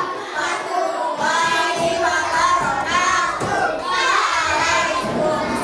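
Young children singing together in high voices.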